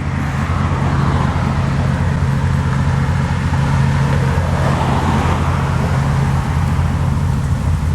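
A car engine running close by at low speed, a steady low rumble.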